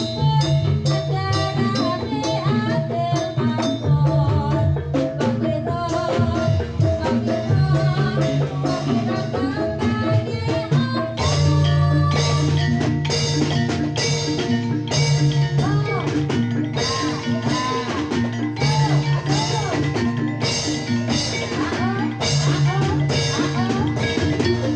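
Live Jathilan accompaniment: a Javanese gamelan-style ensemble with drums keeping a steady, driving beat under pitched instruments playing repeating melodic lines.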